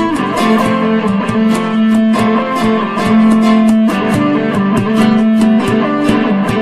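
Instrumental rock ballad: guitars playing sustained, ringing notes over a steady drum beat with regular cymbal ticks.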